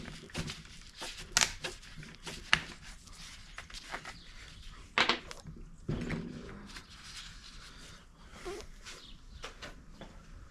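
Irregular handling noises: a string of small clicks, taps and knocks, with sharper knocks about a second and a half in, about two and a half seconds in and about five seconds in.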